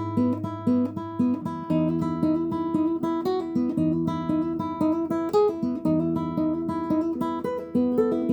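Acoustic guitar fingerpicked note by note over ringing bass notes, the chord changing about every two seconds, as in a fingerstyle exercise.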